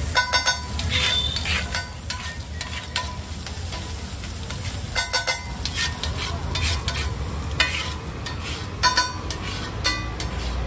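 An egg dish sizzling as it fries while a metal spatula stirs and scrapes it. The spatula clanks against the pan in short quick clusters: right at the start, about halfway, and again toward the end.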